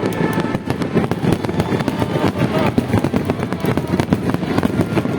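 Aerial fireworks going off in quick succession: a dense, continuous crackling of many sharp cracks over a low rumble of bursts.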